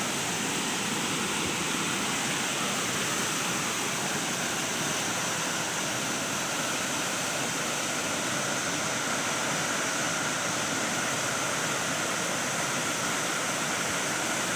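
Mae Sa Waterfall's sixth tier: falling water rushing steadily over rock, an even, unbroken noise.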